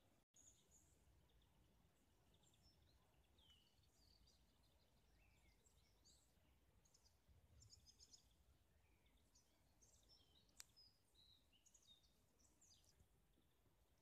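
Near silence with faint, scattered bird chirps and calls, and a single sharp click about ten and a half seconds in.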